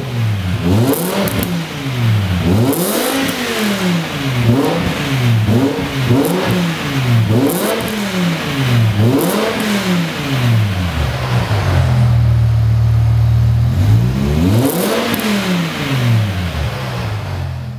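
BMW E60 M5's 5.0-litre V10 through a Supersprint aftermarket exhaust, revved in a series of quick blips about every second and a half, then held at raised revs for about two seconds before one more blip and a drop back toward idle.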